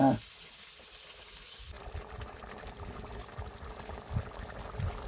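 Water pouring: a high hiss that changes about two seconds in to a lower, fuller splashing, with a few soft knocks. A short voice-like sound comes at the very start.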